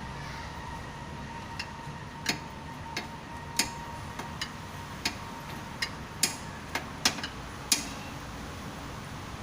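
Irregular sharp clicks and light metallic taps, about a dozen spaced unevenly, from hand tools and engine parts being handled during motorcycle engine assembly, over a steady low hum.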